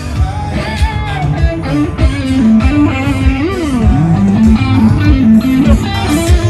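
Live band playing loudly: a lead electric guitar melody with bent notes over bass guitar and a steady kick drum.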